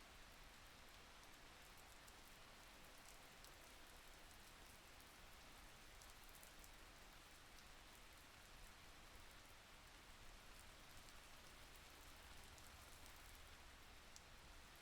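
Faint, steady rainfall: an even hiss with scattered light drop ticks.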